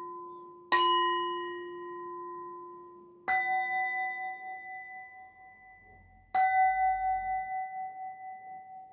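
Bells struck three times, a lower-pitched one first and then two higher ones. Each rings out in a long, wavering decay in the manner of meditation bells or singing bowls.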